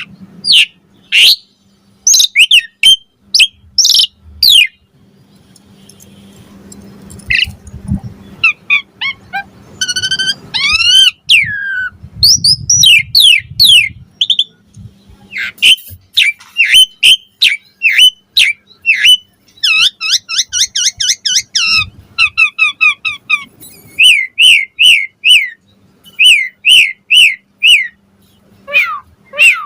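Asian pied starling (jalak suren) singing: a loud, fast mix of whistles and harsh chattering notes, many of them slurred downward, with runs of evenly repeated notes and a short pause about five seconds in.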